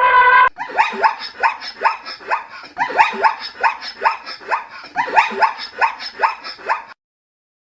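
A small dog yapping in quick short barks, about four a second, in three runs, cutting off abruptly near the end. At the very start a loud held call with several overtones ends suddenly half a second in.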